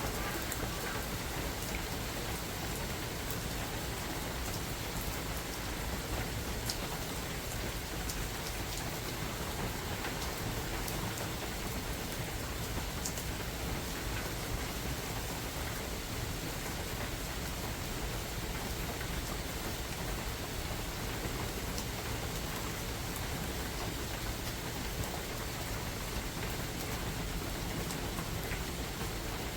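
Steady spring rain falling through a forest, an even hiss of countless drops with a few sharper individual drop hits standing out.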